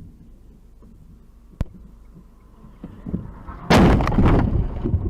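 Car crash heard from a dashcam: low vehicle rumble, a single sharp click, then a loud collision impact about three and a half seconds in, with dense crash noise continuing after it.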